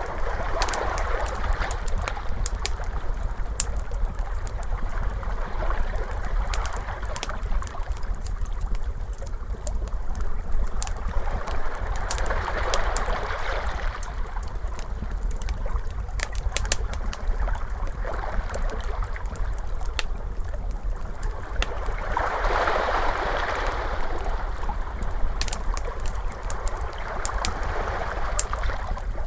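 Wood fire crackling with frequent sharp pops, layered over ocean waves washing in and out as slow swells every five or six seconds, with a steady low rumble beneath.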